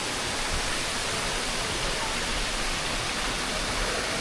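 Waterfall cascade rushing steadily, an even hiss of falling water.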